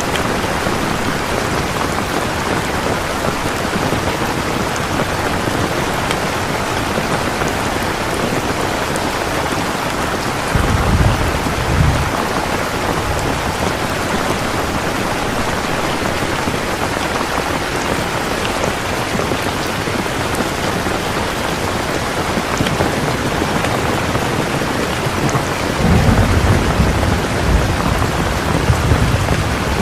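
Steady rain with two low rumbles of thunder, one about a third of the way in and a longer one near the end.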